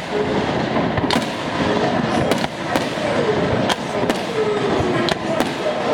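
Fireworks display: sharp bangs of shells bursting at irregular intervals, roughly once a second, over a continuous dense noise.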